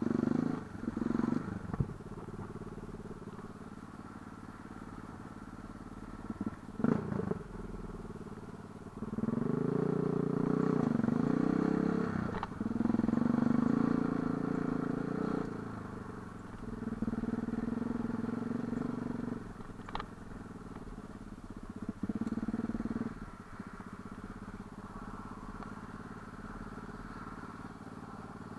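Light enduro motorcycle engine, opened up in several bursts of a few seconds each and dropping back to a low steady run in between, with a few sharp knocks.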